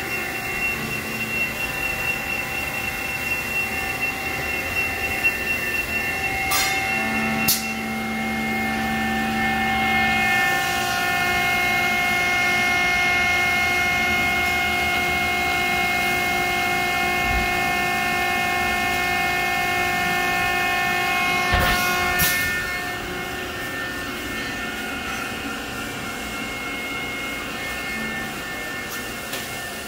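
Steady whine of running machine-shop machinery, several held tones over a noisy hum, shifting pitch about a quarter of the way in and again about two-thirds through, with a few sharp metallic clicks at those changes.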